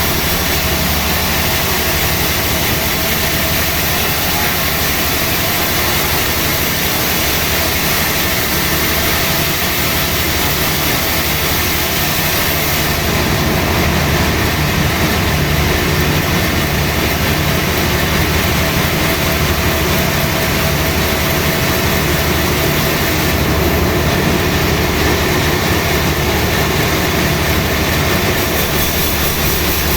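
Sawmill machinery running steadily, a loud even machine noise that grows a little louder about halfway through.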